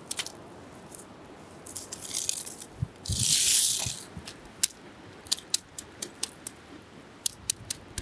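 Wood bonfire crackling and popping with irregular sharp snaps, and a hiss that swells for about a second around three seconds in.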